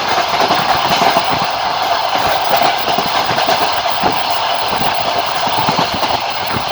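Passenger train running at speed, heard from inside the carriage. It makes a steady rolling rumble, with frequent irregular knocks as the wheels clatter over rail joints.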